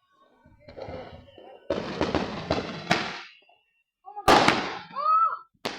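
Backyard fireworks going off: a series of noisy crackling bursts, with sharp bangs about three seconds in and again near the end, and the loudest burst after about four seconds.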